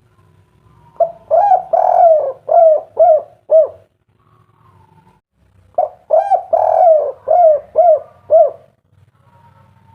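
Spotted dove (tekukur/derkuku) cooing in the "kuk 3" style: two phrases a couple of seconds apart, each a quick run of six or seven coos, the later notes shorter and more clipped.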